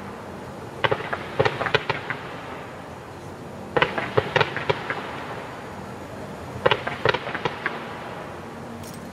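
Aerial fireworks shells bursting in three quick volleys of sharp bangs, each volley several bangs within about a second, coming roughly every three seconds.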